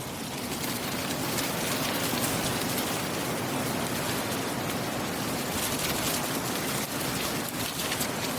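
Steady rain falling, an even hiss with a fine patter of individual drops.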